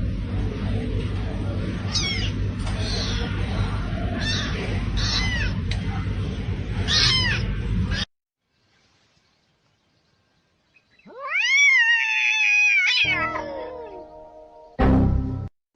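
Domestic cats meowing. Three short meows sound over a noisy background in the first half, then after a pause one long, loud drawn-out yowl that rises and then slowly falls.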